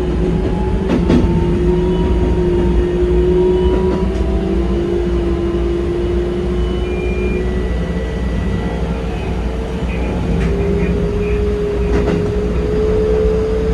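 Keikyu 2100-series electric train running at speed, heard from the driver's cab: a steady rumble of the running gear under the traction motors' whine, which slowly rises in pitch as the train gathers speed. A few sharp clicks come through, about one every few seconds.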